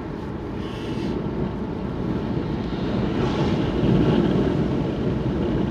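Car engine and tyre noise heard from inside the cabin while driving: a steady low rumble that swells a little about four seconds in.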